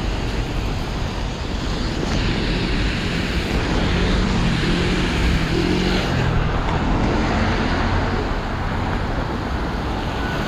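Road traffic on a rain-wet street, with tyres hissing on the wet road. A vehicle's engine comes through as it passes, about four to seven seconds in.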